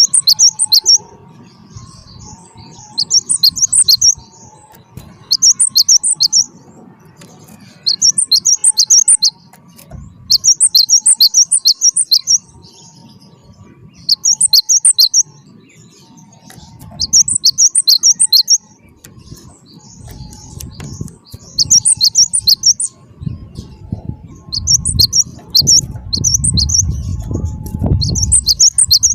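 Cinereous tit (gelatik batu) singing in short bouts of rapid, high, sharp chirp notes, each bout about a second long and coming every two to three seconds, about ten in all. A low rumbling noise underneath grows louder in the last few seconds.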